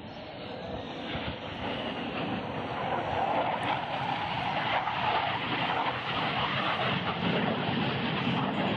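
Aircraft flying past, its engine noise a steady rushing that grows louder throughout as it approaches.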